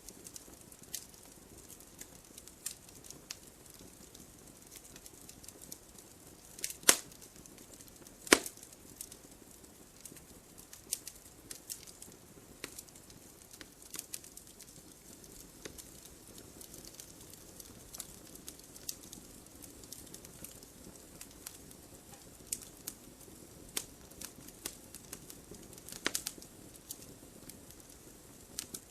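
Wood fire crackling: sharp snaps and pops at irregular intervals over a faint steady hiss of burning, with two loud snaps about seven and eight and a half seconds in.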